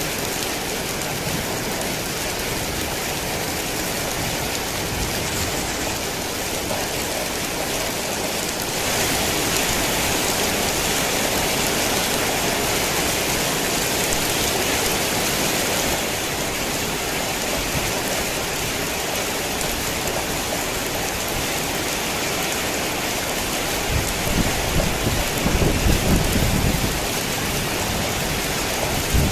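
Heavy rain falling steadily, growing louder and hissier for several seconds about nine seconds in. Low rumbles of thunder come in near the end.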